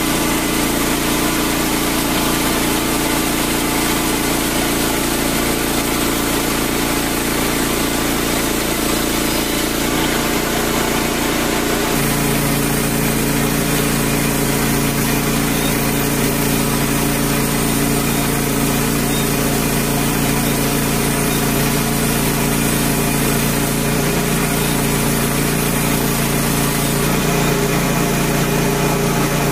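Frontier OS27 portable bandsaw mill running steadily under its small gas engine while the band blade, missing about eight teeth, saws through a red oak log. The engine note shifts about twelve seconds in.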